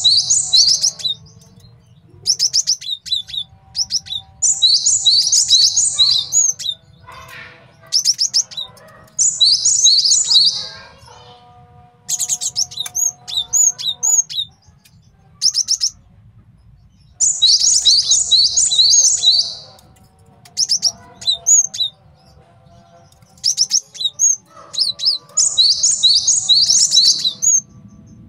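A male cinereous tit (gelatik batu) singing in repeated bursts of rapid, high chirps. Each burst lasts a second or two and comes every few seconds, with a few single notes in between, over a faint low hum.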